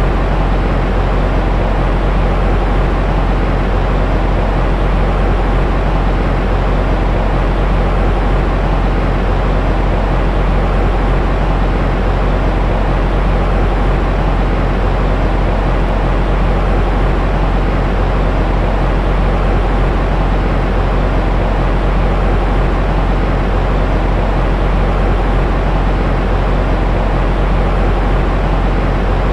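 Steady, unchanging white noise for infant sleep: an even, rushing rumble that is heaviest in the bass.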